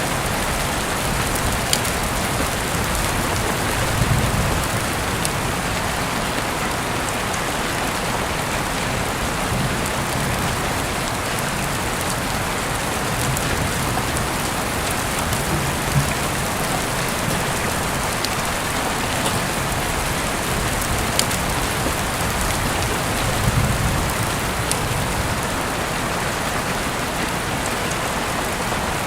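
Steady rain falling, a dense even hiss, with a few scattered sharp ticks of drops and a couple of soft low swells, about 4 seconds in and again near the end.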